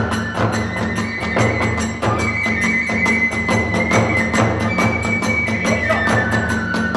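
Hiroshima kagura ensemble playing: a bamboo flute holds long high notes that step between a few pitches, over a fast, even beat of drum and small hand cymbals at about five strokes a second.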